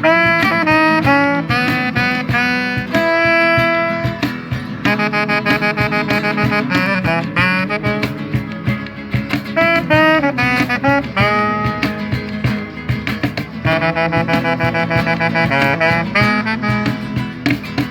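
Band playing an instrumental break between sung verses, a horn carrying the melody in held and running notes over a steady drum beat and bass.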